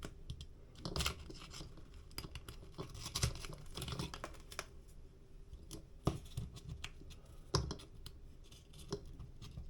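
A blade cutting and scraping away loose drywall face paper around a damaged patch: faint, irregular scratches, small tearing sounds and clicks.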